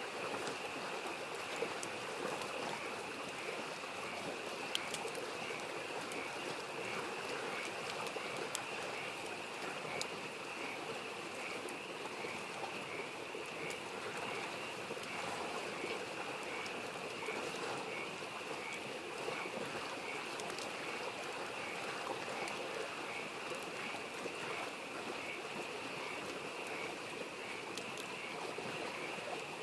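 A small stream babbling steadily under a chorus of frogs calling in quick, evenly repeated notes, with a wood campfire crackling in scattered sharp pops.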